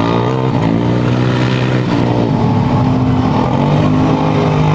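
Truck engine revving, its pitch rising and falling, then settling into a steadier lower drone near the end.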